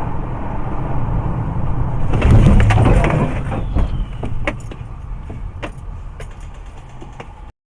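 Motor vehicle rumbling, loudest from about two to three and a half seconds in, followed by several sharp clicks or cracks. The sound cuts off just before the end.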